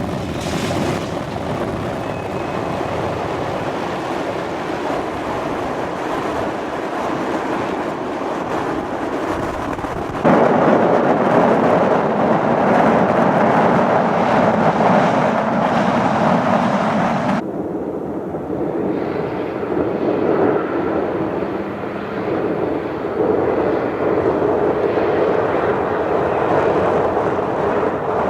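MAN rally race truck running at speed, a steady engine and rushing noise with no clear note. The sound changes abruptly twice, about ten seconds in, where it gets louder, and again about seven seconds later.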